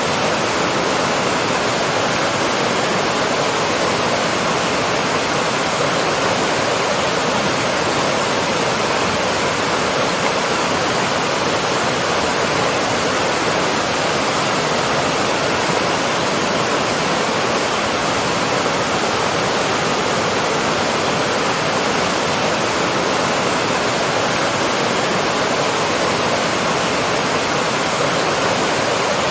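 Waterfall: water falling and rushing in a steady, loud, unbroken roar.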